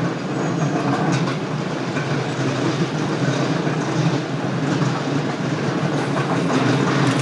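Electric commuter train running along the line, heard from inside the carriage: a steady rumble of wheels on the rails.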